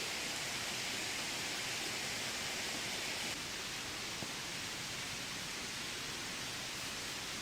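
Steady heavy rain falling, an even hiss with no distinct drops or knocks, stepping down slightly in level about three seconds in.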